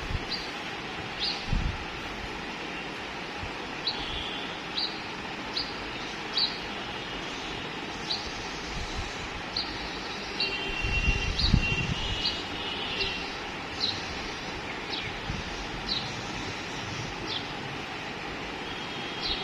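Short high bird chirps, repeated roughly once a second over a steady background noise, with a longer trilling call and a few low bumps about halfway through.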